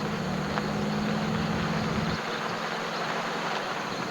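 A car engine running with a low, steady hum that fades away about halfway through, over a steady background hiss.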